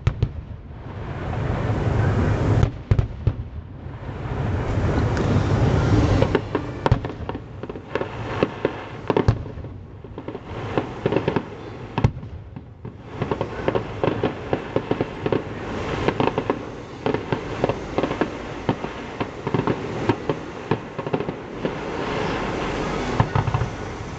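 Fireworks display: dense volleys of bangs and crackling, with deep rumbling booms that swell and fade, barely a pause between salvos.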